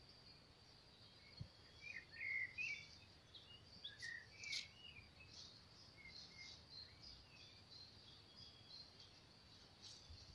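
Faint birdsong: scattered short chirps, mostly in the first half, over a steady faint high hiss, with a couple of soft clicks.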